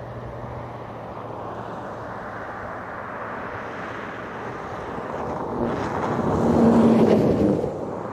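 A vehicle passing close by: a steady rumble that swells to a loud peak about seven seconds in, then falls away quickly.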